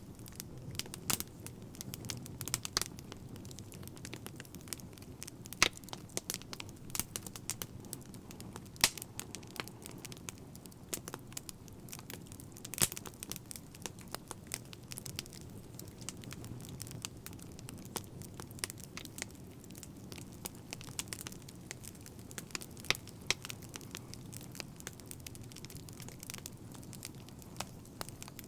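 Wood fire crackling: irregular sharp pops and snaps, a few of them louder, over a low steady rush of flame.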